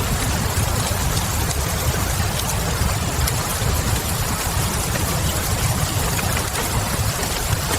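Wood fire crackling with scattered small pops over a steady hiss of rain and a constant low rumble.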